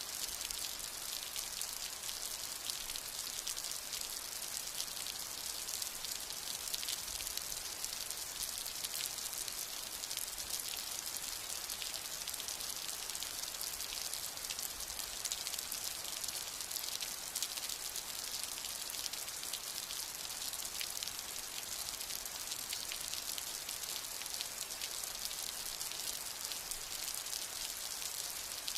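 Steady rain falling: an even hiss of many fine drops, with no change in strength.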